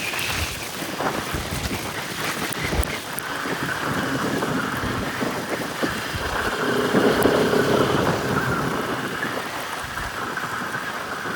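A Bajaj Pulsar RS200's single-cylinder engine running under a steady rush of wind and tyre noise on a rough dirt trail, with a few low bumps early on. The engine note comes through more clearly a little past the middle.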